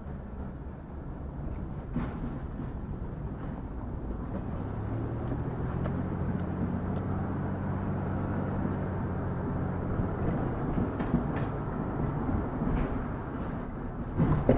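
Vehicle driving on a road: a steady low engine and road rumble, with the engine note coming up more clearly about halfway through, and a few faint clicks.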